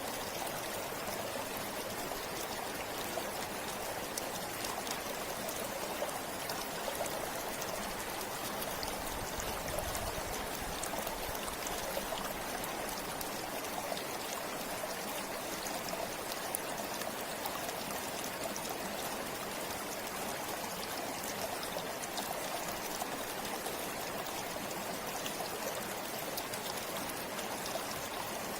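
A river flowing steadily over rocks: continuous rushing water, with small splashes and trickles throughout.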